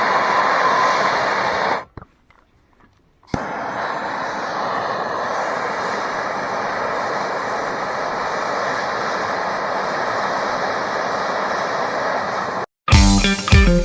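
Steady, loud machine running noise that cuts out about two seconds in and comes back a second and a half later. Guitar music starts near the end.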